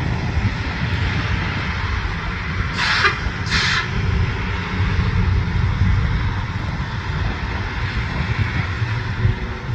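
LORAM rail grinder working the rail: a steady low rumble under a continuous hissing grinding noise. Two short, sharp hisses come about three seconds in, half a second apart.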